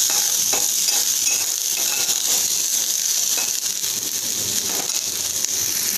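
Chopped onions sizzling in hot oil in a metal kadai, with a steady hiss, while a utensil stirs them, scraping and clicking against the pan at irregular moments.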